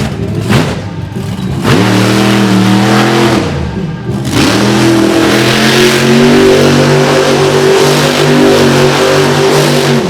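Monster truck engine revving hard: a couple of quick blips at first, then held at high revs for about two seconds, a brief drop about four seconds in, and a climb back to high revs held for most of the rest.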